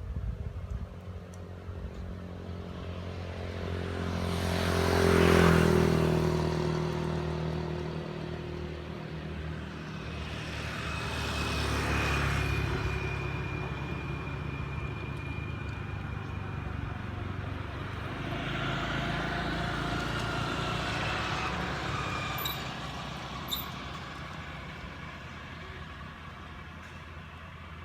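Road vehicles passing one after another, each swelling and fading away: three passes, the loudest about five seconds in.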